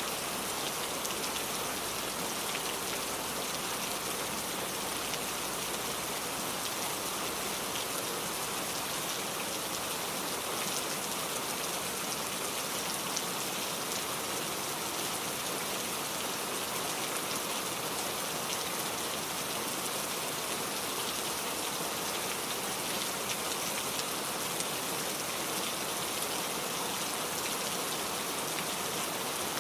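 Steady rainfall, with fine raindrop patter on surfaces.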